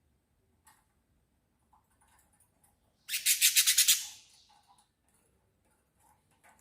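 A small bird gives a loud, rapid rattling trill of about ten notes in just under a second, about three seconds in, amid faint scattered chirps.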